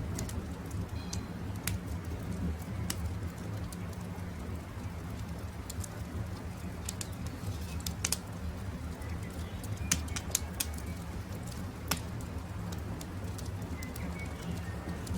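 Wood fire crackling, with scattered sharp pops (the loudest about halfway through) over a steady low rumble, and faint short bird chirps in the background.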